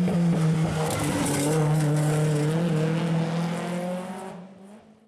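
Rally car engine running hard at high revs, its note dipping about a second in and then held steady, with a brief high hiss from the tyres. The sound fades out over the last second into silence.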